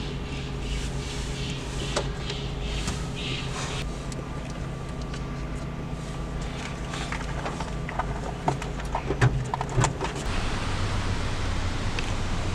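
Steady low hum of a car running, heard from inside the car. A handful of sharp clicks and knocks come about eight to ten seconds in.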